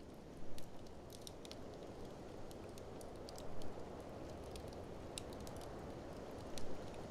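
Wood fire in a fireplace crackling with scattered sharp pops, three louder bursts of crackle about half a second in, midway and near the end, over a steady low rush of blizzard wind.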